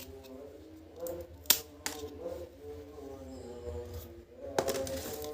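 A few sharp clicks and taps from small puzzle parts being pressed and punched out by hand. The loudest is about one and a half seconds in, with another near the end.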